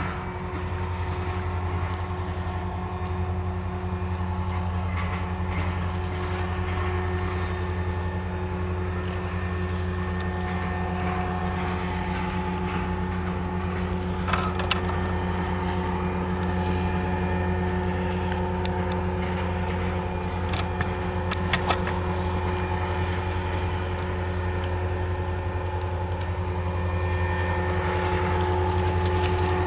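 Freight train of enclosed autorack cars rolling past with a steady low rumble, with a few sharp clicks of wheels over rail joints about halfway through and again a little later.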